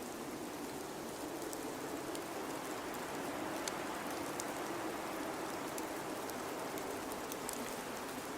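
Steady blizzard wind: an even rushing hiss with no gusts or breaks, and faint, sparse ticks scattered through it.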